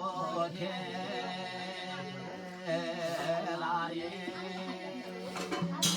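Male voice singing a Garhwali Nag Devta jagar in a drawn-out, wavering devotional chant over a steady low drone. Drum strokes come in just before the end.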